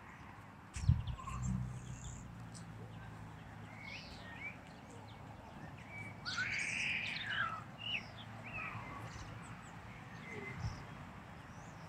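Small birds chirping and calling in short, quick notes, busiest about six to seven seconds in. A low thump about a second in and another near the end.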